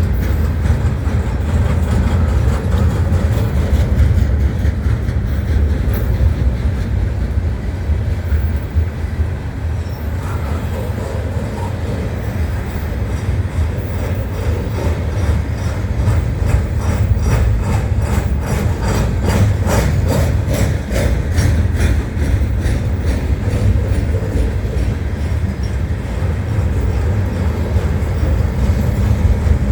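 Loaded freight train of pipe cars rolling past with a steady heavy rumble; in the middle a run of rhythmic wheel clicks over the rail joints comes through.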